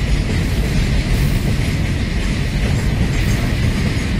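Empty BOSTHSM open-top steel freight wagons rolling past, with a steady rumble of wheels on the rails.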